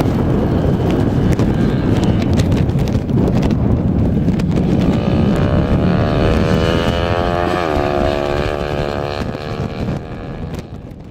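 Racing engine of a rally motorcycle or quad running: a loud rumble with wind noise, then an engine note that rises in pitch, dips briefly, and fades out near the end.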